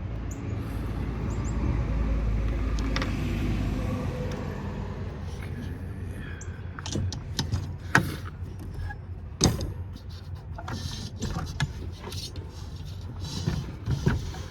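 A cordless drill-driver running, backing screws out of the power supply's metal case, then a string of metallic clicks and knocks from loose screws and parts being handled, with two sharp clacks about 8 and 9.5 seconds in.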